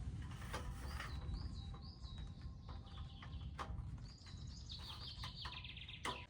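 A small songbird calling a rapid series of short high chirps, about three a second, starting about a second in, over a low steady rumble and a few sharp knocks.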